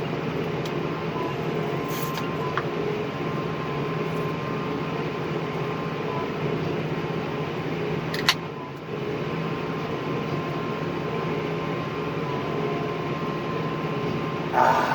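Engine running steadily, heard from inside the cab of a farm vehicle, with a single sharp click about eight seconds in.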